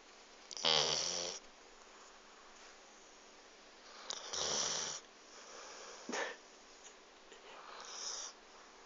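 Dog snoring in its sleep: three snores a few seconds apart, the first the loudest and the last the softest, with a brief sharp click between the second and third.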